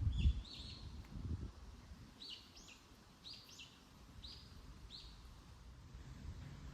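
A songbird calling outdoors, a short chirped phrase repeated about five times over several seconds. A couple of low thumps near the start, the first one the loudest sound.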